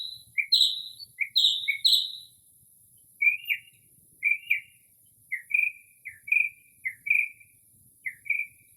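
Northern mockingbird singing: one phrase, a sharp high note followed by a short lower one, repeated about four times, then after a brief pause it switches to a different, lower two-part phrase repeated about seven times. A faint steady high hiss runs underneath.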